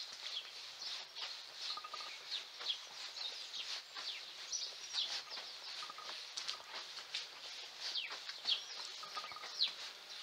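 Birds chirping busily: many short, high calls and quick falling notes overlapping, with a brief lower note recurring every few seconds.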